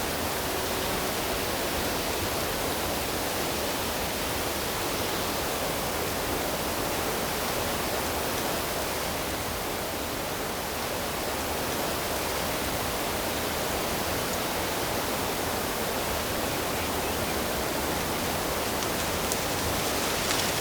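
Steady rush of running water, an even roar with no breaks or changes.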